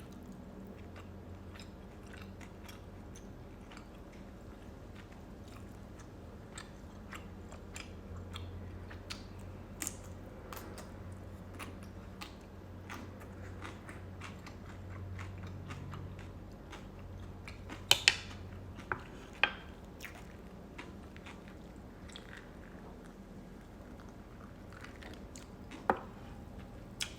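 Close-up chewing of chewy rice cakes and noodles, with many small wet mouth clicks. A few sharp, louder clicks come about two-thirds of the way through and again near the end.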